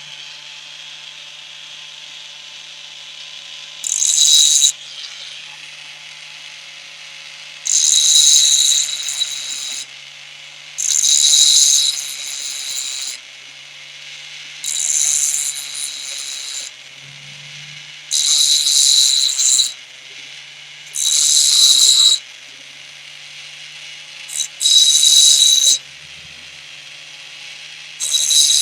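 A small ball-shaped grinding point is pressed against a lathe tool bit in about eight separate passes of one to two seconds each, grinding the tool's chip breaker. Each pass is a harsh, high grinding hiss, and a motor hums steadily in the gaps between them.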